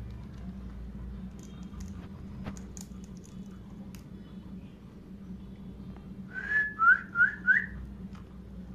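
Four loud whistled notes, one short held note followed by three quick rising slurs, about two-thirds of the way through, over a steady low background hum.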